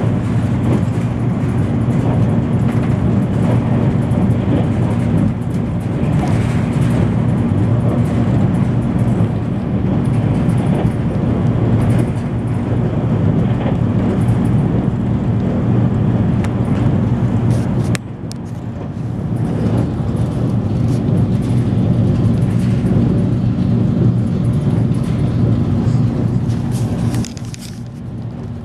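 Passenger train running at speed, heard from inside the passenger car as a steady low rumble that drops briefly about eighteen seconds in and again near the end.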